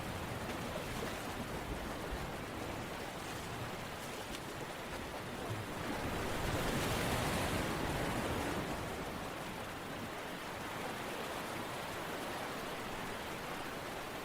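Steady rushing water noise, part of an ambient relaxation soundscape, swelling louder for about three seconds in the middle.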